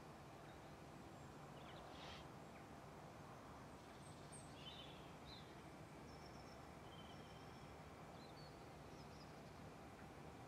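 Near silence: a few faint bird chirps and short calls over a quiet, steady low background hum.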